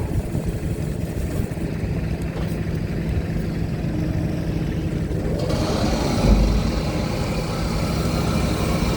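Heavy vehicle diesel engines running steadily with a low hum. A brief low thump comes about six seconds in, and a hissing noise joins from about halfway.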